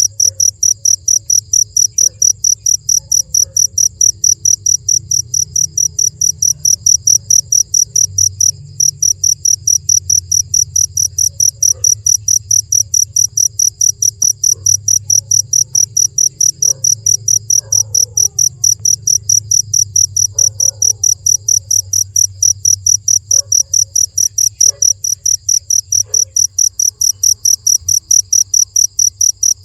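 A cricket chirping loudly in a fast, even rhythm of high-pitched pulses, with one short break about nine seconds in. A low steady hum runs underneath.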